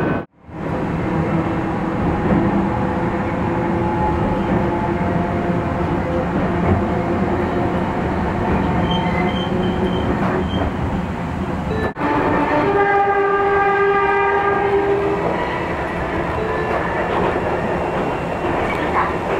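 Enoshima Electric Railway train running on the track, a steady rumble of wheels and running gear. The sound cuts out briefly just after the start and again about twelve seconds in. Soon after the second cut, a steady multi-note tone sounds for about three seconds over the running noise.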